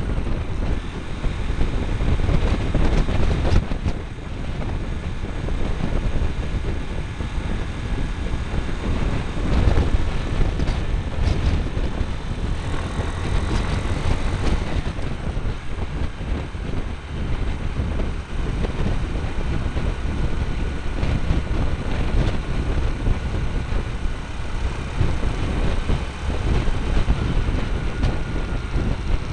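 Motorcycle running as it is ridden, heard through a small camera cable-tied to the bike: a continuous low rumble of engine and road noise, with a faint tone that drifts in pitch now and then.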